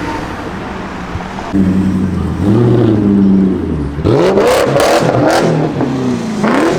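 A car engine revving, its pitch climbing and dropping several times, with a few sharp cracks in the middle of the revs.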